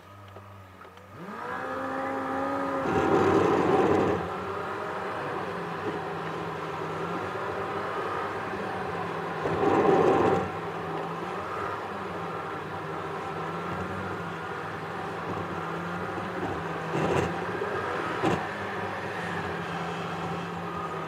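Car engine and road noise heard from inside the cabin as the car pulls away from a standstill: the engine note comes up about a second in and rises, with louder surges a few seconds in and again about halfway, then runs steadily at cruising speed. Two sharp knocks come near the end.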